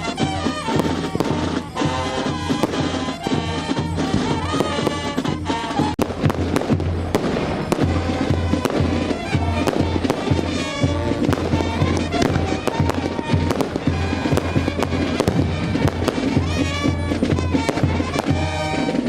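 Fireworks going off in frequent bangs and crackles, over loud music with a heavy bass beat.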